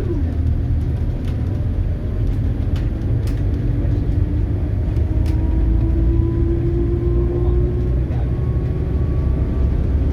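Scania K280UB bus's five-cylinder Scania DC9 diesel pulling under load through its ZF Ecomat automatic gearbox. The pitch drops at the very start as an upshift, then a driveline whine rises slowly as the bus gathers speed, with a few light rattles early on.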